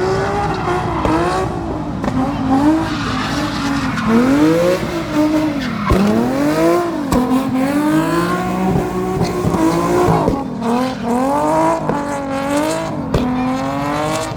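Drift car's engine revving up and down again and again as the car is thrown through a drift, with tyres squealing.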